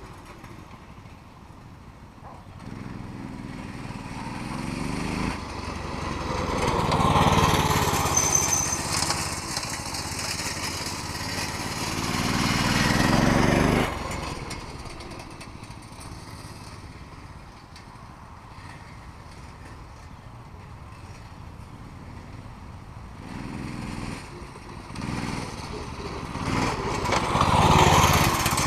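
Mini bike's small engine revving and easing off as the bike rides near and away. It is loudest a quarter of the way in, again just before halfway and near the end, and fainter in between.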